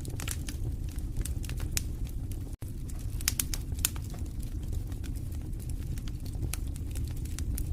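Wood fire in a fireplace burning steadily: a low roar of flames with irregular sharp crackles and pops from the burning logs. All sound cuts out for a split second about two and a half seconds in.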